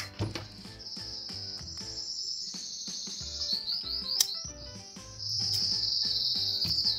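A bird sings long, high, rippling trills, broken about halfway by a run of quick descending notes, with soft background music underneath. A sharp click sounds about four seconds in.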